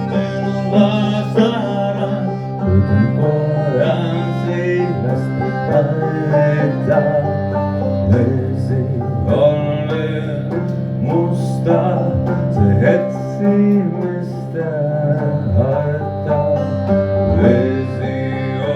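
Acoustic music with plucked string instruments over a sustained low tone, many notes picked in quick succession.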